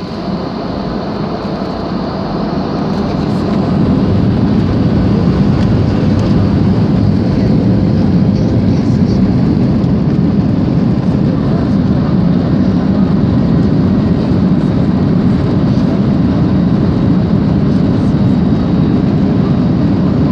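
Jet airliner's engines heard from inside the cabin, growing louder over the first four seconds as they spool up to takeoff power, then running steadily with a deep rumble through the takeoff roll.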